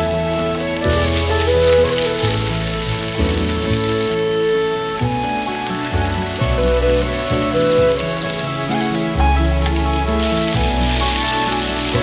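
Chopped onions, carrots, spring onions and sausage slices sizzling in oil in a frying pan. The hiss drops away briefly about a second in and again near the end. Background music with a bass line plays throughout.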